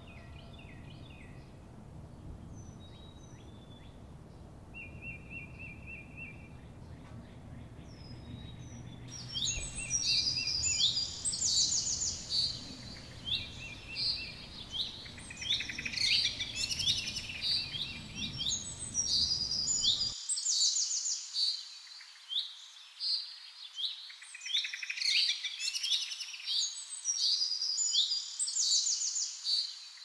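Male king bird-of-paradise calling in display: a few faint scattered calls, then from about nine seconds in dense runs of loud, rapid high chirps and whistled notes. A low background rumble cuts off suddenly about two-thirds of the way through.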